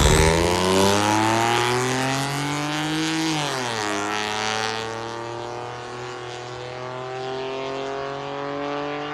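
2011 Ford F-150 V6 with straight-piped true dual exhaust, mufflers and resonators removed, accelerating away. The engine note climbs, drops sharply at an upshift about three and a half seconds in, then climbs again as it fades into the distance.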